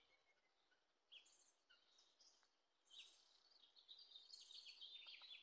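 Near silence with faint bird chirps, short calls repeated here and there.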